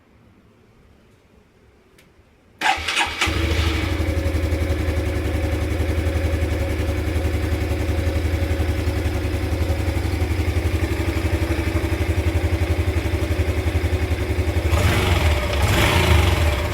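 Motorcycle engine started about two and a half seconds in, catching at once and settling into a steady idle, then briefly revved a little higher near the end.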